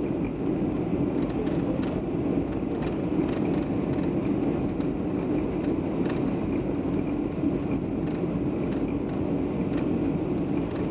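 Steady drone of an airliner's engines and rushing air heard from inside the cabin, with faint scattered clicks.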